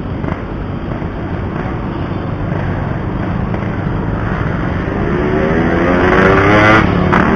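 Single-cylinder two-stroke motorcycle engine of a Yamaha RX-King 135 running on the road under rushing wind noise. About halfway in, its note rises and grows louder as it accelerates.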